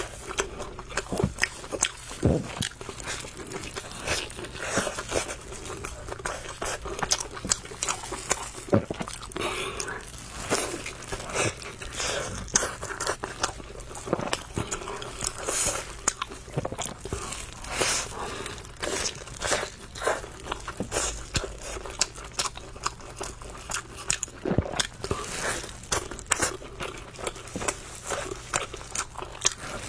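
A person eating spicy noodles close to the microphone: chewing and biting, with many short, crunchy clicks at an irregular pace.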